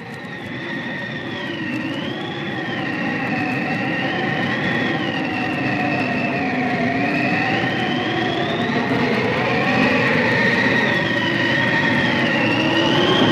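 A train approaching and growing steadily louder: a rumble under high, slowly wavering squeals and a steady high whine, typical of steel wheels on rail.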